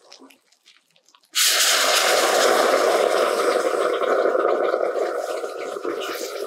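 Tomato purée poured into hot spiced oil in a stainless steel kadhai: a sudden loud sizzle starts about a second in and carries on, easing slowly.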